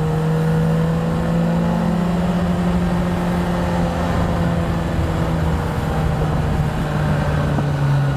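Suzuki GSX650 motorcycle's inline-four engine running at a steady pitch while riding slowly through traffic, the pitch easing down slightly near the end.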